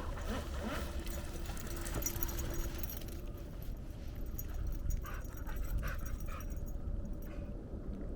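A dog whimpering and panting over a steady low rumble, with a few short sharp sounds about five to seven seconds in.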